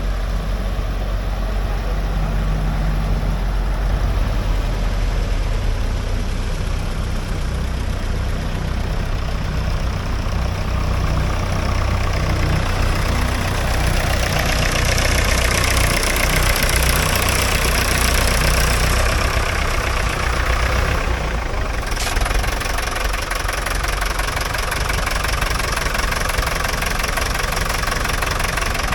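Vintage agricultural tractor engine running at low speed with a steady low throb. Higher-pitched engine noise builds through the middle, then drops off suddenly with a sharp click about three quarters of the way through.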